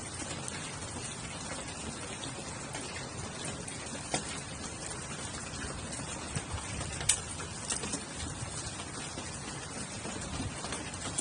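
Steady rain falling, with a few sharp pops, the loudest about seven seconds in.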